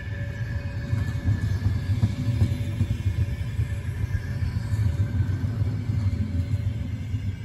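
Passenger train rolling slowly past, a steady low rumble with a faint high whine over it.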